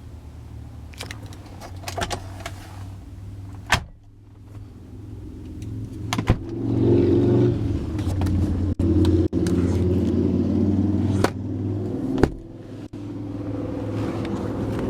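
2003 Chrysler 300M Special's 3.5-litre V6 running, the engine sound growing much louder about six seconds in, with several sharp clicks or knocks along the way.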